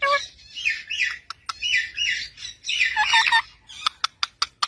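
Parrot making short, harsh squawking chirps in small clusters, followed by several sharp clicks near the end.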